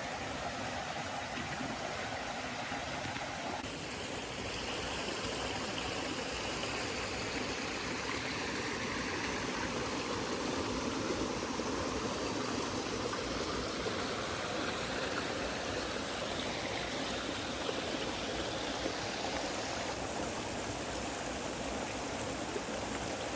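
Steady rush of running water, with a shift in tone about four seconds in.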